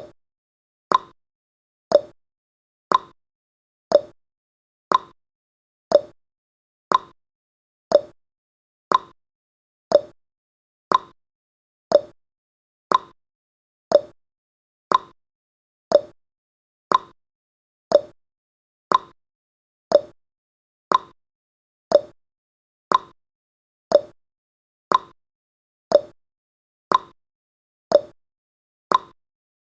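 A countdown timer's ticking sound effect: one short, sharp tick every second, evenly spaced.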